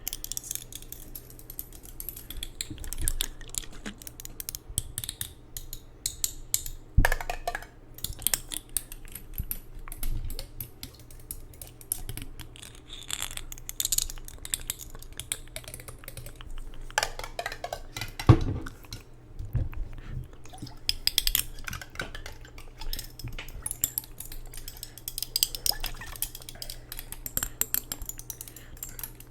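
ASMR tapping and clicking on hard objects, fast and irregular like typing or clinking, with two louder knocks, about a quarter and two thirds of the way through, over a faint steady low hum.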